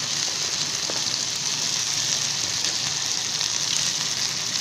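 Boiled chickpeas and chopped potato frying in oil in a kadai, a steady, even sizzle.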